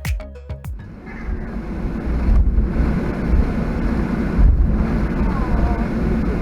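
Steady low rumble of noise inside a Boeing 737-800 cabin, with faint voices underneath. A music track cuts off in the first second.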